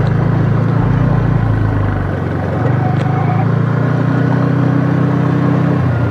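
Motor scooter engine running steadily at a constant speed while riding.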